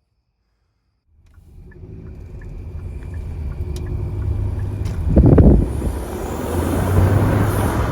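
Kia K5 1.6-litre turbocharged engine running under acceleration. It fades in about a second in, with a brief loud low rumble about five seconds in, then a rising rushing noise.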